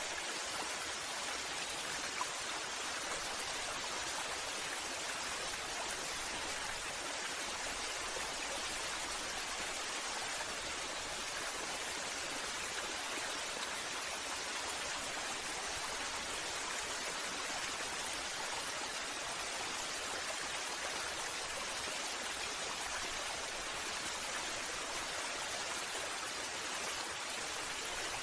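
Waterfall: a steady, even rush of falling water, mostly hiss with little low rumble and no separate splashes.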